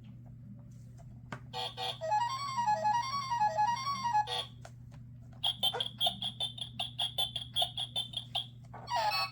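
Tinny electronic sound effect from a children's sound book's button speaker. It plays a short warbling melody that swings up and down in pitch, then a quick run of bright ringing strikes, about five a second, and two short gliding sounds near the end, all over a low steady hum.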